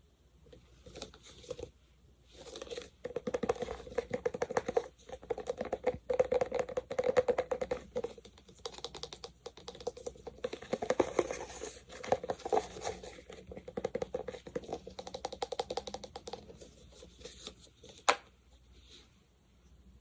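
Close-miked sticky sounds of a gel being worked by hand: dense runs of tiny crackles and smacks in bouts with short pauses, and one sharp click near the end.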